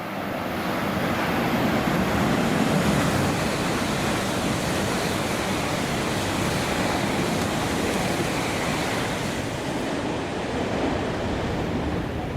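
Shinkansen bullet train passing through the station at high speed: a steady rushing roar that builds over the first couple of seconds, holds, and eases slightly near the end.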